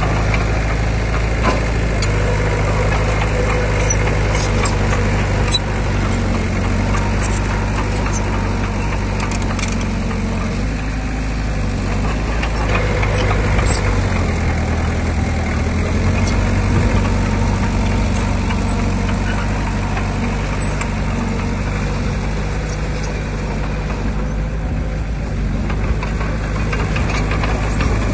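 Heavy diesel engine of earthmoving equipment running steadily under load, its note shifting up and down several times as the load changes.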